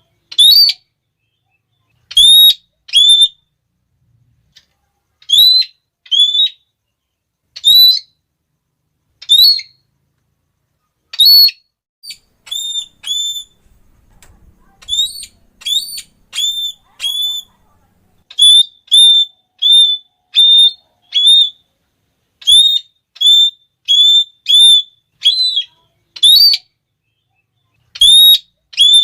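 Red-cheeked parrot giving its shrill, repeated "klee" call: short high notes, each with a slight upward bend, in pairs and runs of three to six, with pauses of a second or two between groups.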